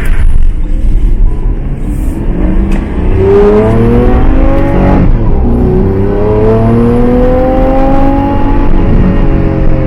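Lamborghini Aventador's V12 engine accelerating hard. After a low rumble it revs up through a gear, drops sharply as it shifts about five seconds in, revs up again and settles to a steady note near the end.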